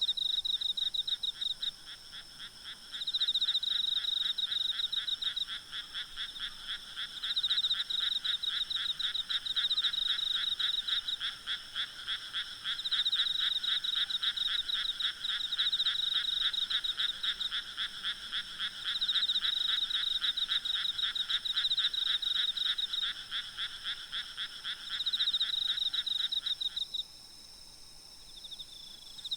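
A frog calling in long runs of rapid croaks with short breaks between them, stopping near the end and starting again at the close, over a steady high-pitched chorus of insects.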